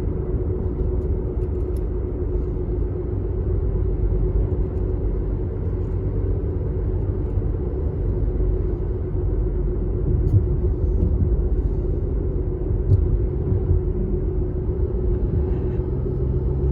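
Steady low rumble of a car driving, with a constant drone throughout.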